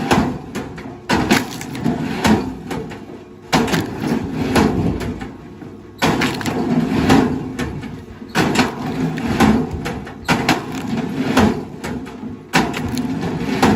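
Wood cracking and splintering in heavy, sudden bursts, about one every two seconds, each fading away before the next.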